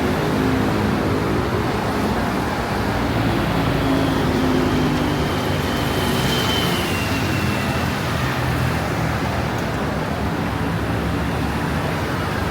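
Road traffic: the steady hum and rush of cars and buses running, with one vehicle passing and swelling briefly about six seconds in.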